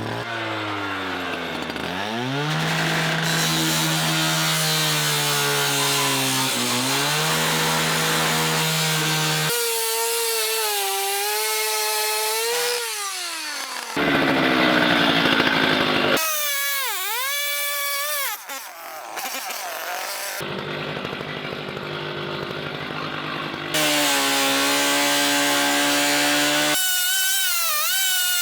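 Power saw cutting through the car body's sheet metal, its motor running loud with a pitch that sags as it bogs under load and then recovers. The sound breaks off and changes abruptly every few seconds as one short cut follows another.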